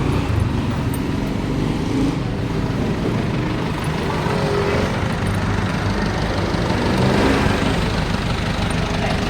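A truck engine idling steadily with a low rumble.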